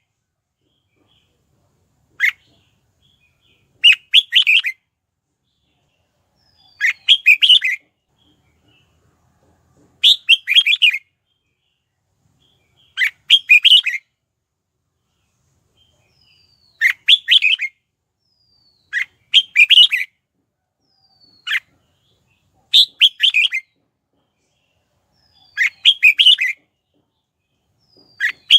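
Red-whiskered bulbul singing: short, quick phrases of chirpy notes, repeated roughly every three seconds with silent gaps between. This is decoy song meant to call in and rouse other bulbuls.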